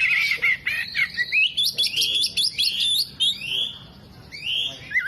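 Oriental magpie-robin (kacer) singing: a fast, varied string of whistles and chirps that pauses about four seconds in, then starts again.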